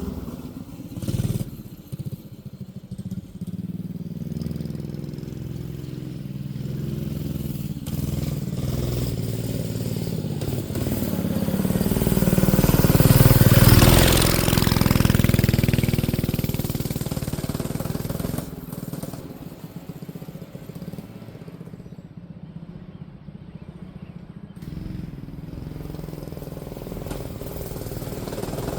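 Manco Streaker mini bike's small engine running as the bike is ridden, revving up and down. It grows louder toward the middle as the bike comes close, then fades again.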